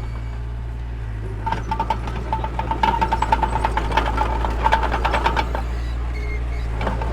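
Mini bulldozer's diesel engine running steadily. A rapid clattering starts about a second and a half in and stops a little after five seconds.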